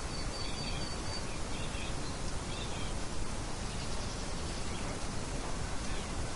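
Steady wind-like rushing noise with a few faint, high bird chirps and one short thin whistled note in the first few seconds.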